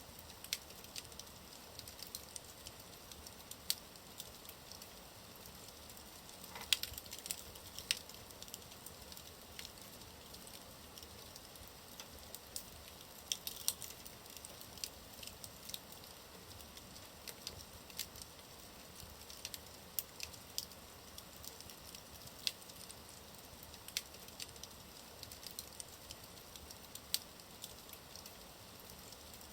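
Wood fire burning in a fireplace: a steady soft hiss with irregular sharp crackles and pops from the burning logs, a few of them louder.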